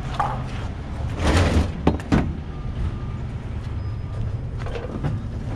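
A vehicle engine running steadily under a rush of scraping about a second in and a few sharp metal clanks, as scrap metal slides off the truck while it is being dumped.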